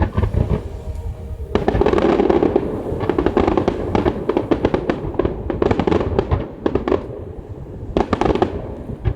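Fireworks going off in rapid volleys, a dense run of crackling bangs starting about a second and a half in and another burst near the end, over a steady low rumble.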